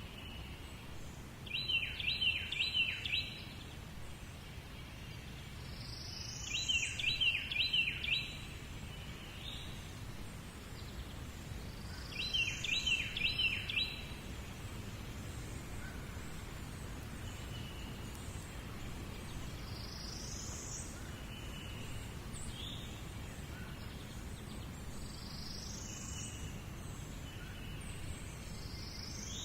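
Birds calling over a steady low background rumble. There are three short bursts of quick repeated high chirps in the first fourteen seconds, with fainter rising whistles scattered through the rest.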